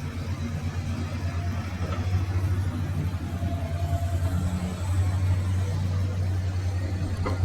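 A heavy vehicle's engine running with a steady, low, pulsing rumble, a little louder from about five seconds in.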